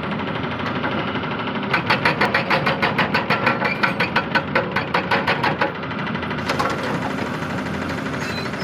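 Excavator's diesel engine running steadily, with a burst of rapid clattering, about six knocks a second, lasting some four seconds through the middle.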